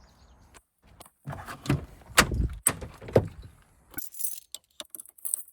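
A series of sharp knocks and clicks, loudest in the middle, followed by fainter scattered clicking.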